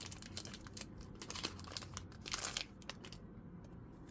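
Foil booster pack wrapper crinkling and tearing as it is ripped open by hand, with a longer, louder rip about two and a half seconds in. The crinkling stops about three seconds in.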